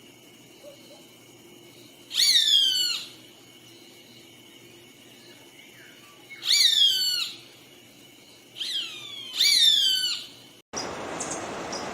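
A bird calling repeatedly, four times, each call a quick run of loud, falling whistled notes. Near the end the sound switches abruptly to a steady rushing hiss with faint high chirps.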